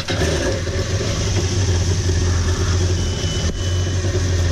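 Yamaha 190 FSH jet boat's inboard engine idling steadily just after starting, with a strong low hum. It is being run briefly so the fresh oil fills the new oil filter.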